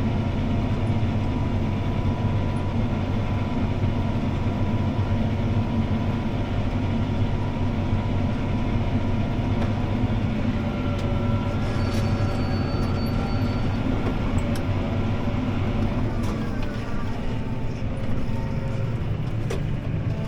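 CLAAS ARION 650 tractor's six-cylinder diesel engine running steadily under load while pulling a disc harrow, heard from inside the cab as a deep drone with faint whining tones. A few light clicks come in the second half, and a whine shifts in pitch near the end.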